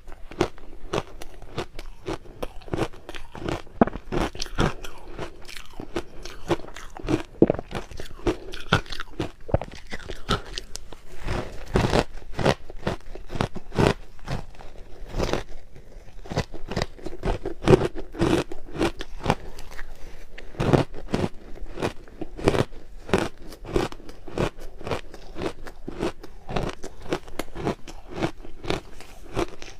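Crushed ice being bitten and chewed close to the microphone: a dense, unbroken run of crunches.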